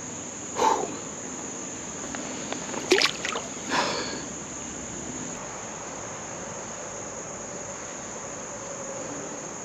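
Steady high-pitched insect chorus shrilling without a break, with three brief louder noises about a second in and around three and four seconds in.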